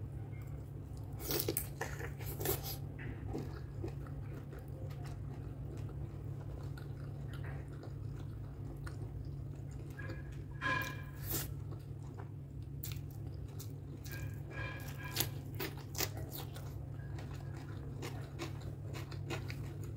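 Close-up mouth sounds of a person chewing rice and pork curry eaten by hand: wet smacks and sharp clicks come in clusters between quieter chewing. A steady low hum runs underneath.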